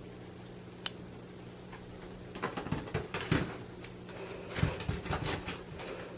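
Cats' paws scampering and pouncing on the floor after a laser dot: two short flurries of scuffling and light knocks in the second half, with a single sharp click about a second in and a steady low hum underneath.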